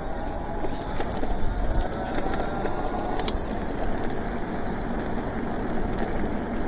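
Electric bike riding on a wet road: a steady rush of wind on the action-camera microphone with tyre noise, and a faint hub-motor whine through the first few seconds.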